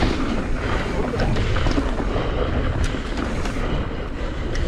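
Wind buffeting the microphone and a mountain bike's tyres rolling over loose dirt and rocks on singletrack, with scattered clicks and knocks from the bike.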